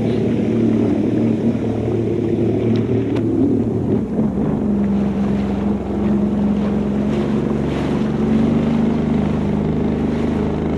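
Jet ski engine running steadily. Its pitch drops about four seconds in, then holds.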